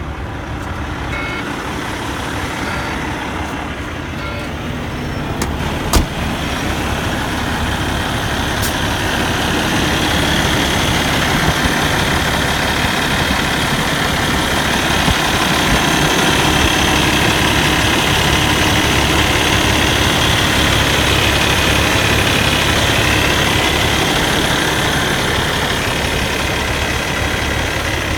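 Truck's Cummins ISX15 inline-six diesel idling steadily. There is a sharp click about six seconds in, and the engine grows louder around eight to ten seconds in, then holds steady.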